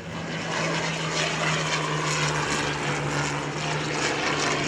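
Engine noise of a Second World War piston-engined propeller aircraft flying by, building quickly over the first half second and then holding loud and steady with a low drone.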